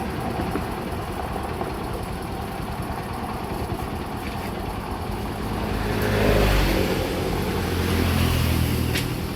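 A motor vehicle's engine over a steady outdoor background, growing louder a little past halfway and easing off near the end.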